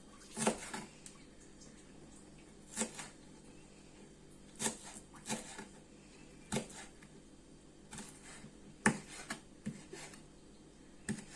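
Kitchen knife striking a wooden cutting board while chopping fresh parsley and dill, in separate unhurried strokes about one to two seconds apart.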